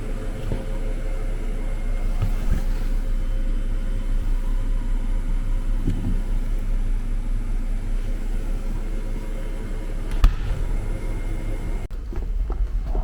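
Steady low rumble of a vehicle in motion, with one sharp click about ten seconds in; the sound changes abruptly near the end.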